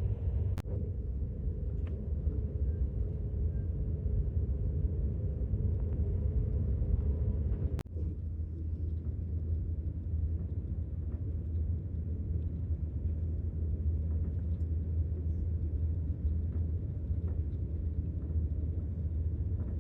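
Steady low rumble of a passenger train running, with a brief break about eight seconds in.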